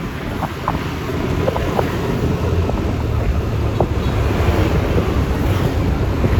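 Wind rumble on the microphone and road noise while riding a Yamaha Lexi LX 155 S scooter in traffic, steady throughout with a few faint short ticks.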